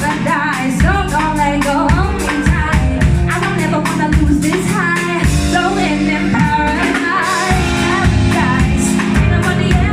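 Live band music with a woman singing lead over guitar and drums.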